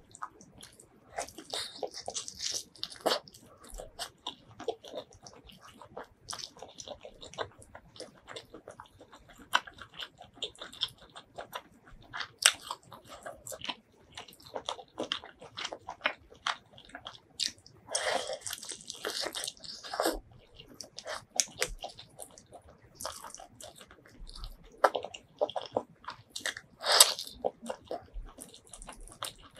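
Close-miked eating of spicy duck curry and rice by hand: steady chewing and biting, a dense run of wet mouth clicks with louder clusters near the start, in the middle and near the end.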